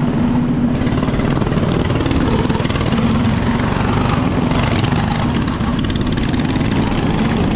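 Small mini-bike engines running steadily, with a constant hum and a dense rattle of engine noise throughout.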